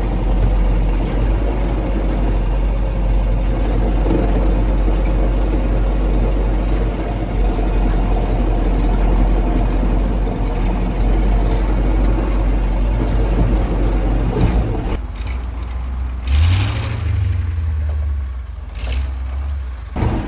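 1985 KAMAZ 4310 6x6 truck's V8 diesel engine running under load while driving off-road. About three-quarters of the way through, the sound changes abruptly to a duller, deeper rumble with a brief low surge, then switches back near the end.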